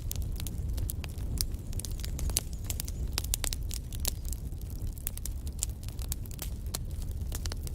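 Wood fire in a fireplace burning: a low steady rumble of flames under frequent, irregular sharp crackles and pops from the burning logs.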